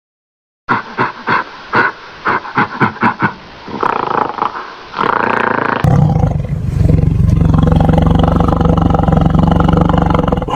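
Animal calls: a quick run of short calls, then a few longer ones, then an abrupt change to one long, steady, low call.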